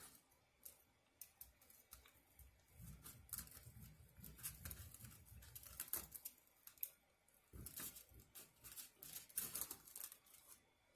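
Quiet, close eating and food-handling sounds: scattered clicks, crunches and rustles. Two busier stretches of chewing and handling come about three to six seconds in and again about eight to ten seconds in.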